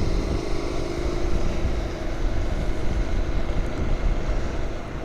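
Motorcycle engine running while riding, over constant wind and road rumble; the engine note drops slightly in pitch over the first couple of seconds, then holds steady.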